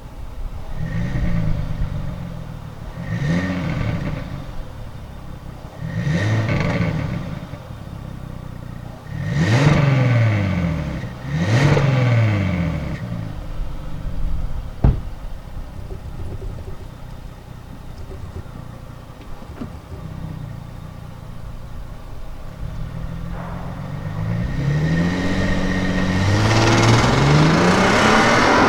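2017 Genesis G80's 3.8-litre V6 exhaust, with an X-pipe in place of the middle muffler, revved in five quick blips that each climb and fall back. Near the end there are two longer rising pulls as the car accelerates away, getting louder.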